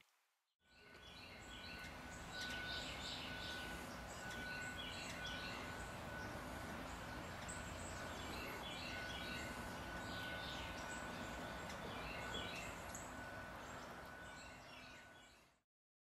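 Faint outdoor ambience that fades in and out: scattered short bird chirps over a steady hiss, with a thin, steady high tone running underneath.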